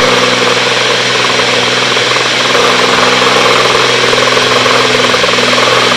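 Cessna 310's twin piston engines and propellers droning steadily in flight, heard in the cockpit.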